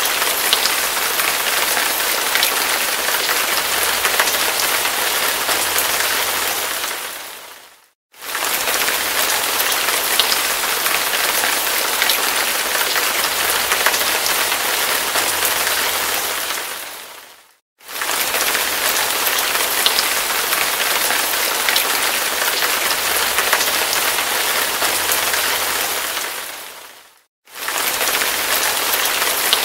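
Hard rain pouring steadily, a dense hiss with scattered drop ticks. Three times, about every ten seconds, it fades away to a moment of silence and quickly comes back.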